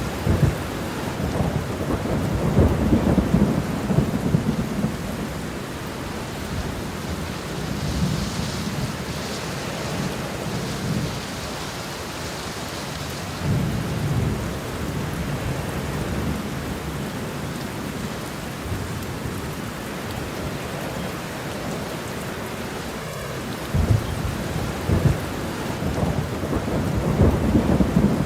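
Steady rain with thunder rolling low several times, the longest rumbles in the first few seconds and near the end.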